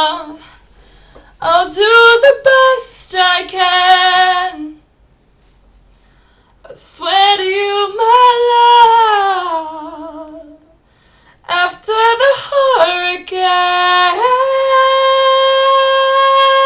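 A woman singing unaccompanied, in three phrases with short silent breaths between them. The last phrase ends on a long, steady held note.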